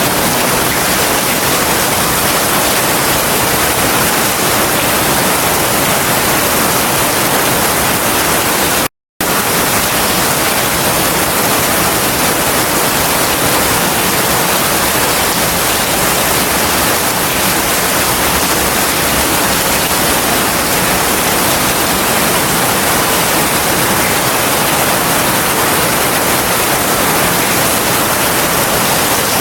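Heavy rain falling steadily, a dense even hiss with no thunder. The sound cuts out completely for a fraction of a second about nine seconds in.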